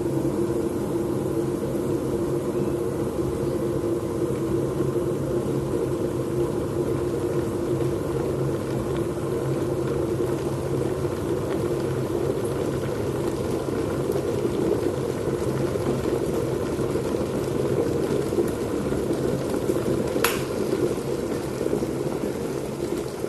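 Kitfort electric kettle heating water toward the boil: a steady, even noise with a low hum underneath. One sharp click comes near the end.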